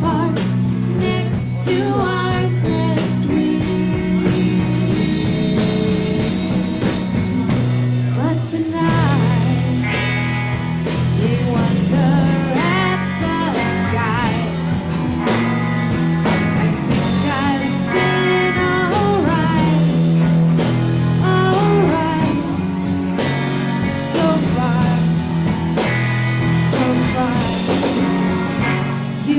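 Live rock band playing, with a singing voice over electric guitar, bass and drum kit.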